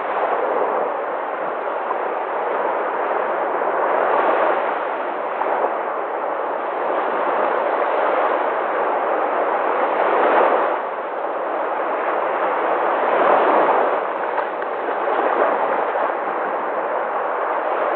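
Sea waves breaking and washing on the shore: a continuous rushing surf that swells louder every few seconds as waves break.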